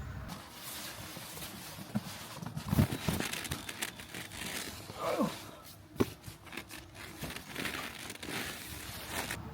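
Irregular crinkling and rustling with many short clicks and a sharper knock about six seconds in, and a brief falling squeak about five seconds in.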